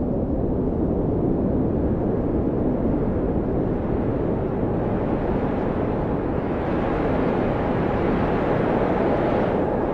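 Blizzard wind howling steadily, a whistling tone slowly gliding up and down over the rushing noise; the gusts grow stronger and brighter about six seconds in.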